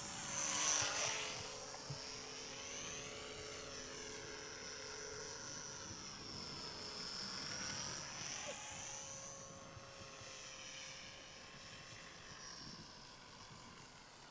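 Small electric-powered RC model plane, a 450mm Top RC Hobby SF260, flying with a steady high-pitched motor and propeller whine. It is loudest about a second in as it passes closest, then keeps whining as it circles, fading a little near the end.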